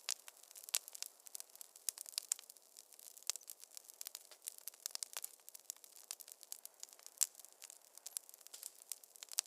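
Wood fire in a fireplace crackling: irregular sharp pops and snaps, several a second, over a faint steady hiss.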